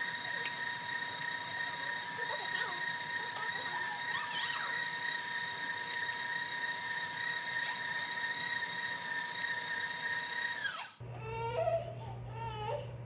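Electric mixer motor running at a steady speed with a high whine, then winding down and stopping about eleven seconds in. After that come a low hum and wavering, cry-like wails.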